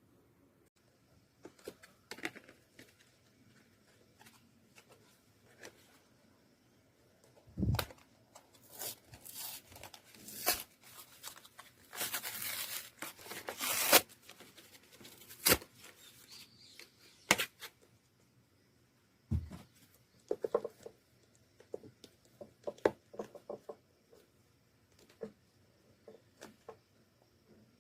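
Handling noises from making slime: scattered clicks and taps, two dull thumps, and a noisy stretch of about two seconds near the middle.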